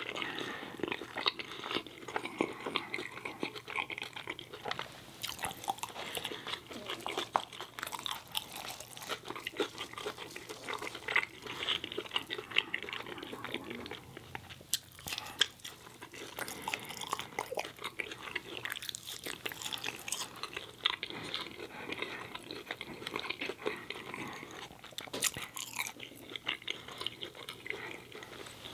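A man chewing French fries with his mouth, with many irregular wet clicks and smacks of lips and tongue.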